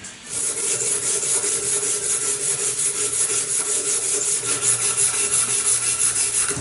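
Abrasive sanding on a knife: a continuous, even rubbing hiss over a steady machine hum, starting just after the beginning and cutting off sharply near the end.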